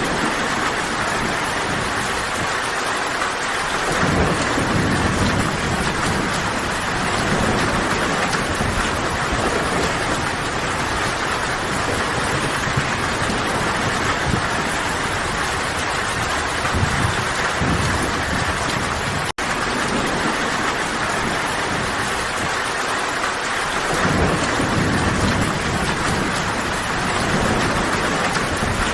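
Steady heavy rainfall, an even hiss without a break, with low rolls of distant thunder swelling about four seconds in and again near the end. The sound cuts out for a split second about two-thirds of the way through.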